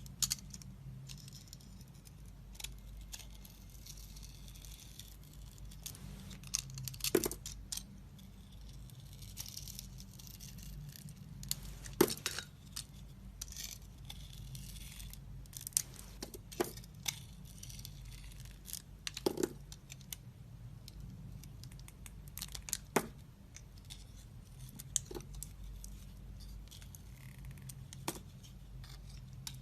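A knife carving a bar of soap: soft scraping and crumbly cutting sounds, broken by several sharp clicks at irregular intervals.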